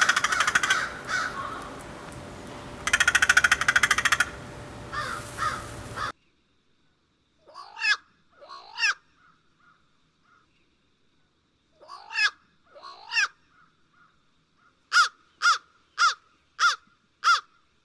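A crow cawing. First come two long, harsh, rasping caws and some shorter ones over a steady outdoor hiss. After an abrupt cut to a quiet background there are cleaner single caws in pairs, then a quick run of five caws near the end.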